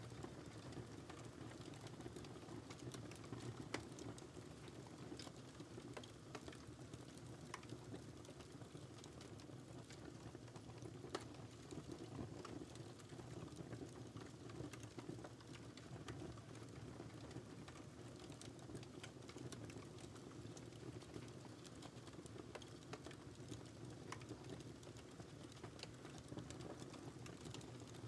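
Wood fire crackling in a fireplace: a low steady rumble of flames with frequent small irregular pops and snaps, a couple of sharper pops about four and eleven seconds in.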